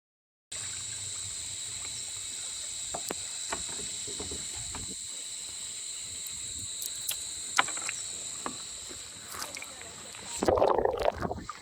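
Steady high-pitched insect drone over small knocks and water noises from a kayak on the water, with a louder splashing burst near the end.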